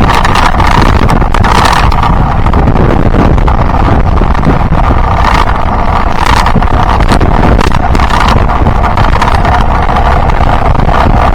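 Yamaha Byson single-cylinder motorcycle running steadily on the road, with heavy wind buffeting on the microphone.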